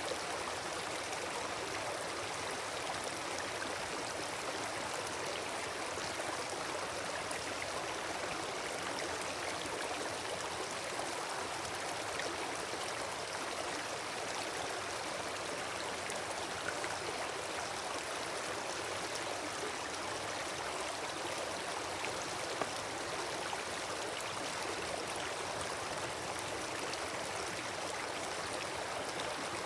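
Wood campfire burning: fine crackles over a steady rushing hiss, with a couple of sharper pops in the second half.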